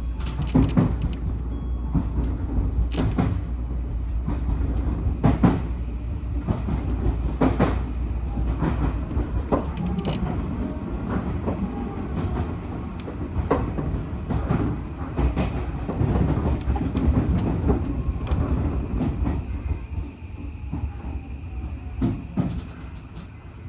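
Odakyu 1000-series electric train running on the line: a steady low rumble with irregular clicks and knocks of the wheels over rail joints. Near the end it grows quieter.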